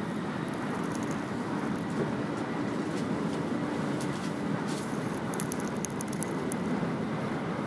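Train running at speed, heard from inside the carriage: a steady rumble of wheels on the rails, with a faint steady high whine and scattered light rattles and ticks.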